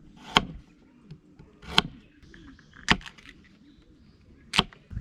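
Four sharp knocks or clinks, spaced about one to one and a half seconds apart.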